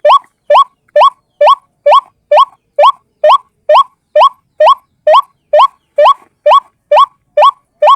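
White-breasted waterhen call from a bird-trapping lure recording: short upward-sliding notes repeated evenly, a little over two a second.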